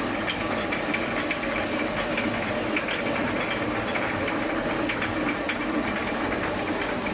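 Steady rain falling, with many small drop impacts ticking through the even hiss.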